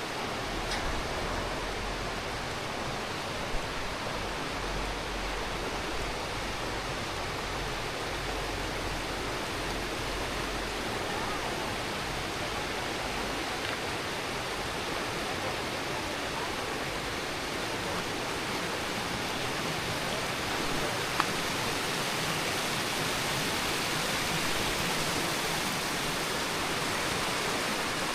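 Rushing water of the Curueño river, a steady, unbroken hiss of flowing and falling water.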